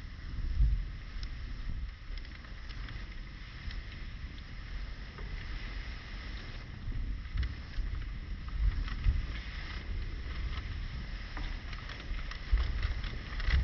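Wood fire crackling, with frequent small irregular pops and snaps, while gusts of wind buffet the microphone with a low rumble.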